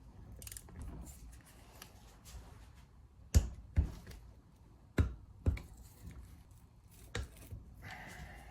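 Tools and small engine parts being handled on a workbench, with five sharp knocks and clicks in two close pairs and then a single one.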